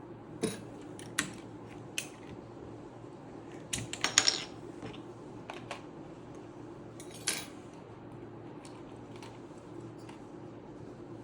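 Plastic keycaps clicking and clattering as they are handled and pressed onto a mechanical keyboard's switches: scattered single clicks, with a quick cluster about four seconds in.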